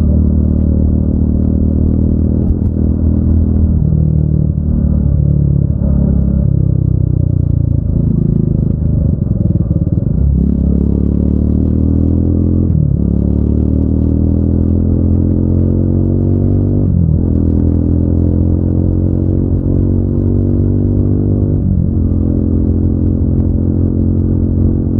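Triumph Speed 400's single-cylinder engine and exhaust under way: the pitch falls as the bike slows, then rises through the gears, with three upshifts where the pitch drops suddenly.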